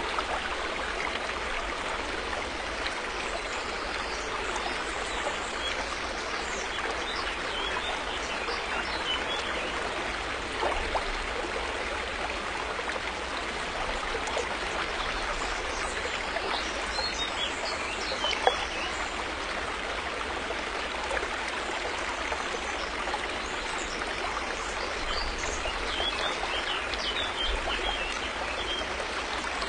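River water flowing over rocks, a steady rushing babble, with one brief louder splash about two-thirds of the way through.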